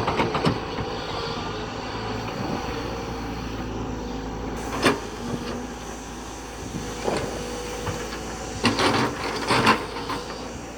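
JCB backhoe loader's diesel engine running steadily, with sharp metal knocks and clanks now and then, a few close together near the end.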